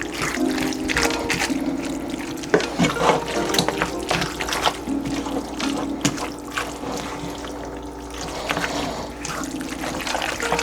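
Water running and splashing in a kitchen, with many small clicks and knocks, over background music with held notes.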